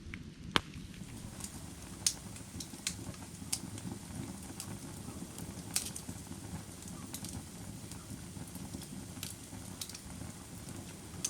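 Firewood burning: a steady low rumble of flames with sharp crackles and pops scattered through, roughly one every second. The loudest pop comes about half a second in.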